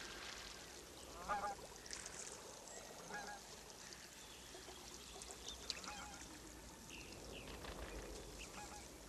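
Faint bird calls, a few short wavering cries spaced a couple of seconds apart, over a steady hiss.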